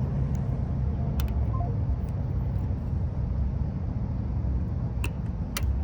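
Steady low rumble of an idling vehicle engine, with a few sharp clicks as a Lishi lock pick is worked out of a car door lock, where it is caught on the dust cover.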